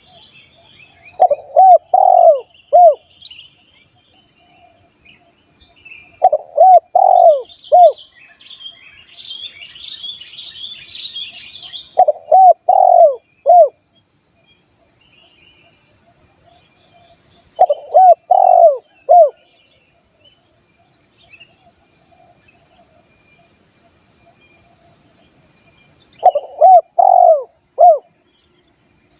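Spotted dove cooing: five phrases of about four rounded coos each, spaced several seconds apart. A steady high-pitched insect drone runs underneath, and a smaller bird twitters briefly about ten seconds in.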